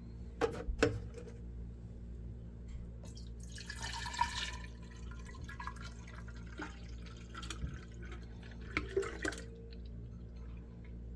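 Milk being poured from a 4-litre milk jug into a glass jar, the pour loudest about three to four seconds in, with a few clinks and knocks of the containers near the start and again near the end.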